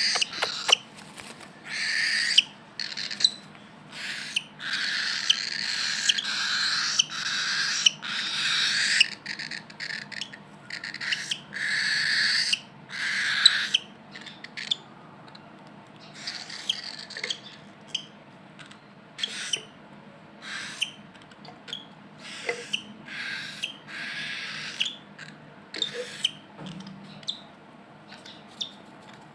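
Pearl cockatiels making a long run of harsh, hissy calls, one after another, longer and louder in the first half and shorter and softer from about halfway through.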